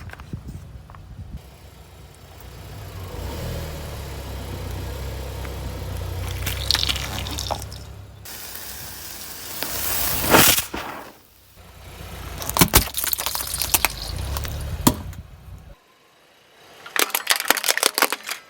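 A car's tyres roll slowly over objects with a low engine and tyre rumble, broken by several bursts of sharp crunching and cracking as things are crushed, with some liquid splashing among them.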